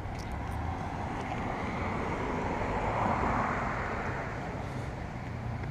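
A vehicle passing by: a steady rushing noise that swells to its loudest about halfway through and then fades, over a low hum.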